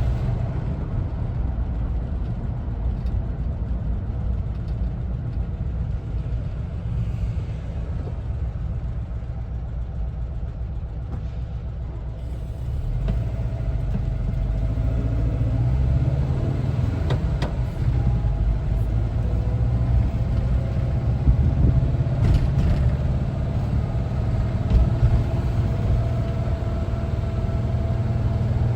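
1974 Volkswagen Westfalia camper's air-cooled Type 4 flat-four engine running while driving, a steady low rumble with road noise. It is softer at first, then grows louder a little under halfway in, with the engine note slowly rising as the bus picks up speed.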